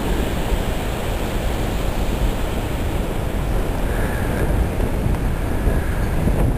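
Steady low rumbling noise with no clear pitch, with a faint brief higher tone about four seconds in.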